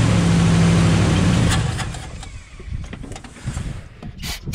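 The 1969 AMC Rebel's 290 V8 runs briefly on fuel primed into the carburetor, then dies away about two seconds in. Near the end come several short hisses of an aerosol can spraying into the carburetor.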